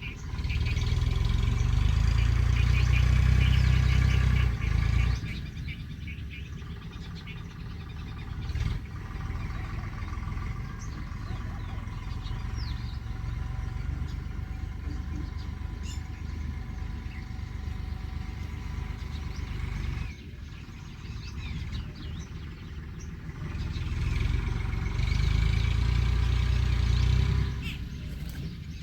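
Low engine rumble of passing vehicles, swelling up and dying away twice, over a steady background with faint bird chirps.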